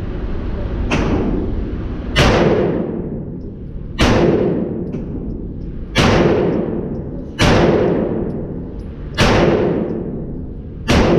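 Slow, deliberate single shots from a 9mm Glock 19 Gen 4 pistol in a CAA Micro Conversion Kit, about one every two seconds, each with a long echoing decay. A fainter shot comes about a second in, then six loud ones.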